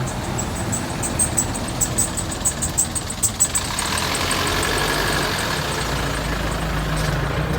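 Motor vehicle engines running with traffic noise, a row of light clicks in the first few seconds and a deeper rumble building near the end.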